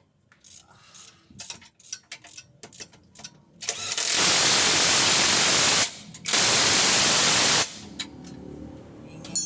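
Light metal tool clinks, then two long bursts of a pneumatic air tool, about two seconds and a second and a half long with a short break between them.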